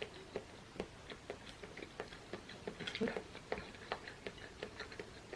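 Close-miked chewing of a shrimp ball: soft, irregular mouth clicks several a second, a little louder about three seconds in.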